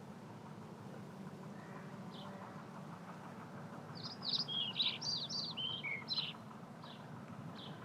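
A wild bird singing a quick burst of high chirping notes about four seconds in, with a few single chirps before and after, over a low steady background rumble.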